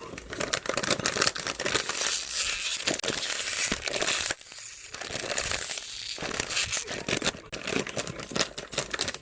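Dense crinkling and crackling noise made of many quick clicks, dropping briefly about four seconds in.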